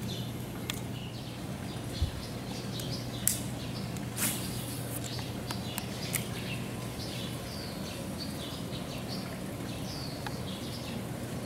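Small birds chirping repeatedly over a steady low hum, with a few faint knocks and clicks.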